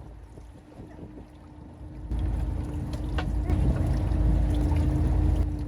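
Strong wind buffeting the microphone on a fishing boat, jumping much louder about two seconds in, over a steady low hum.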